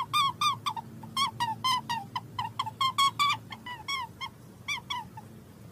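A bird chirping over and over in short, high, quick notes, about five a second, with a faint low hum beneath.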